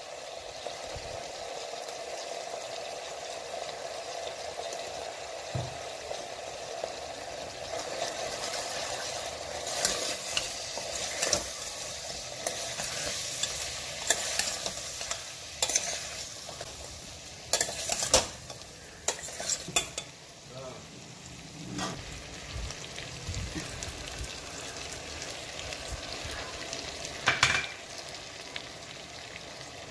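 Chicken pieces frying with a steady sizzle in an open metal pressure cooker. A spoon stirs them, scraping and clattering against the pot in a series of knocks in the middle and once more near the end.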